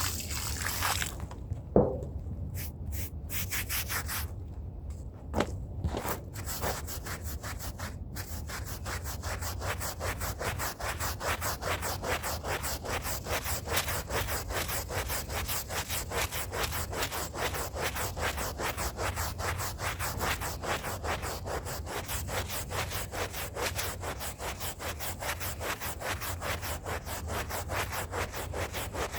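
Hand brush scrubbing a rug, bristles rasping on the carpet fibres. A few scattered strokes and two sharp knocks come in the first several seconds, then steady rapid back-and-forth strokes, several a second.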